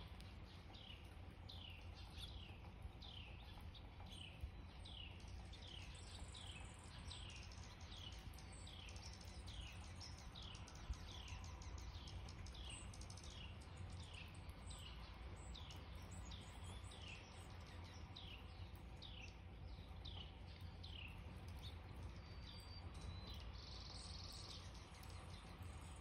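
A songbird repeats one short, downslurred whistled note a little faster than once a second for about twenty seconds, then stops, over a steady low rumble.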